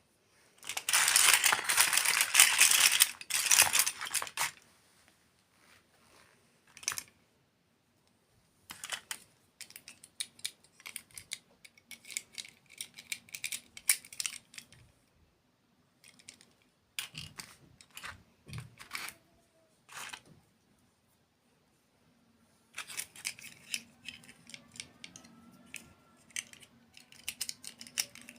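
Close-up crackling and crinkling of dessert food or its packaging being handled, loud and dense for the first few seconds, then scattered crisp clicks and short crackles.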